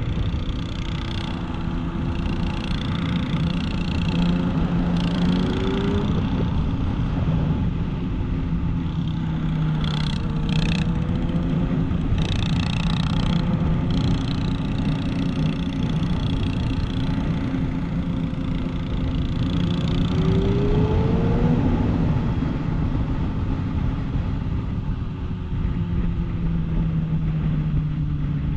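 Motorcycle engines running at a steady pace under heavy rushing wind noise, the engine pitch rising now and then as the throttle opens.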